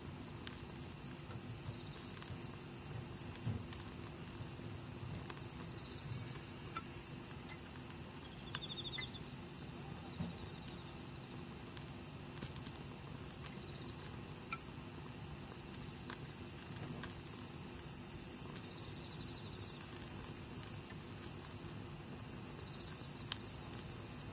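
Wood campfire burning, with scattered faint crackles and pops over a steady high-pitched trill of insects.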